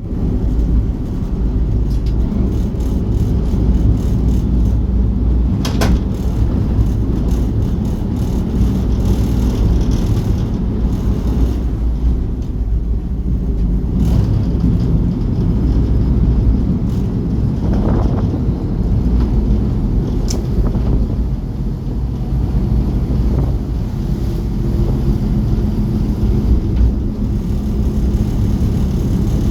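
Engine of a small passenger ferry running steadily, a loud low drone, with a few brief knocks.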